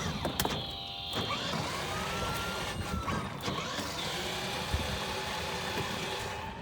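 Battery-powered ride-on toy fire truck driving: a high electric motor whine that drops out for a couple of seconds midway, over the rumble of its plastic wheels on the pavement.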